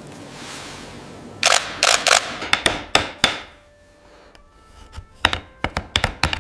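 A series of sharp clicks and knocks in two quick clusters, one starting about a second and a half in and another near the end, over a faint hiss.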